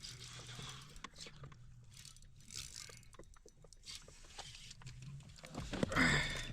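Fishing reel being wound in while a hooked bass is fought, a low whirring in stretches with small clicks and light splashes. A louder, briefer sound comes near the end.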